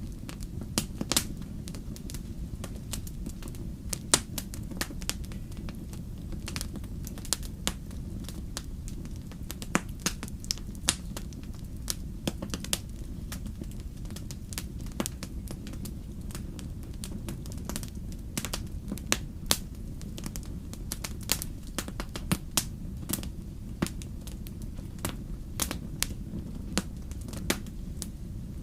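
Wood fire crackling, with sharp irregular pops and snaps over a steady low rumble of the flames.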